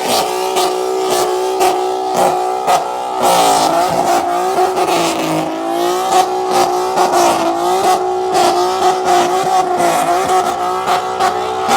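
A car engine held at high revs, its pitch dipping and rising again and again from about three seconds in, as the car is revved hard.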